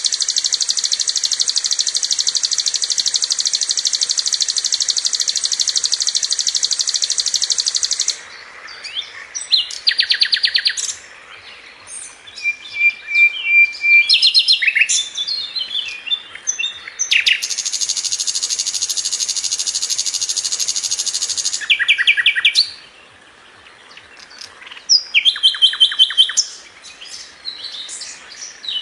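Sikatan londo flycatcher singing: a long, rapid, high buzzy trill, then a string of varied chirps and short notes, and a second long trill about two-thirds of the way through.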